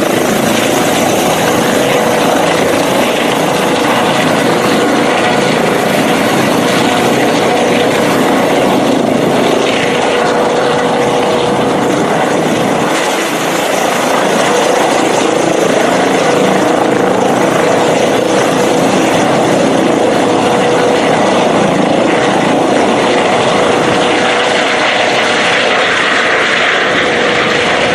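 LifeFlight medical helicopter's engine and rotor running steadily, with a steady tone under the noise.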